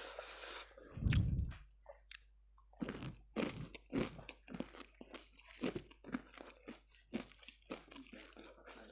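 Close-up crunchy chewing and biting of ayam geprek (crispy smashed fried chicken), in a run of short crisp crunches about two a second. A short low thump comes about a second in.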